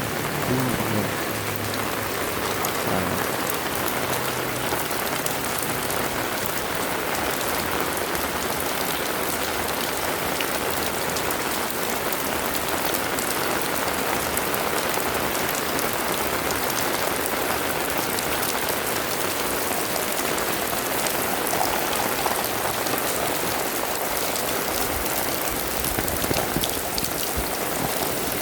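Heavy rain falling steadily, a dense even patter of drops with no break. A low hum dies away in the first few seconds.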